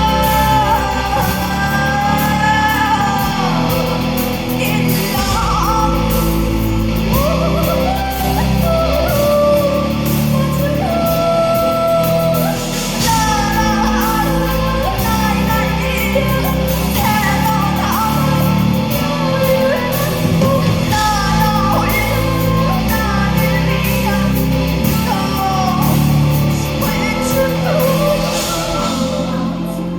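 Live band music with a woman singing: a steady, repeating bass and drum groove under a sung line that slides and bends in pitch.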